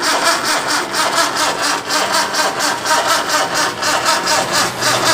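Maruti Suzuki 1000's three-cylinder engine being cranked over by its starter motor in a steady rhythmic churn, about four or five pulses a second, without catching. The car has stood unstarted for years, and the battery is said to be low on charge.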